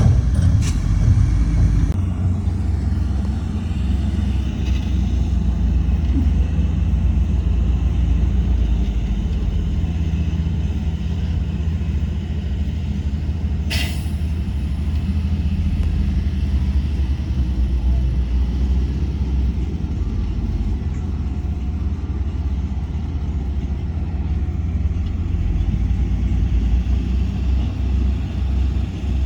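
Heavy diesel earthmoving machinery running steadily with a low rumble. A brief sharp hiss comes about 14 seconds in.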